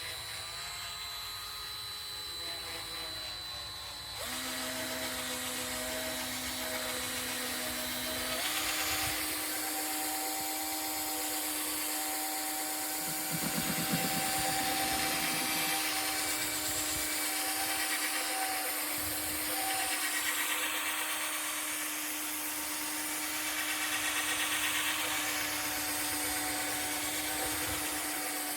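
Cordless drill spinning a wool polishing pad against a plastic headlight lens, buffing in polishing paste. The motor whine steps up in speed twice, about four and eight seconds in, then runs steady.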